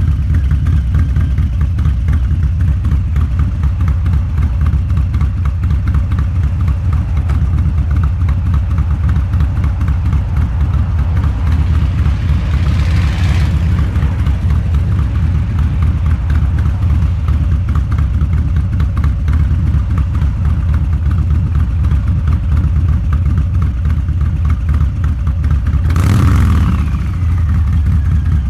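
Harley-Davidson Low Rider's 129 ci V-twin, with a Two Brothers Racing exhaust, running steadily under way with a dense low exhaust pulse. Two brief swells of rushing noise come through, about halfway and near the end.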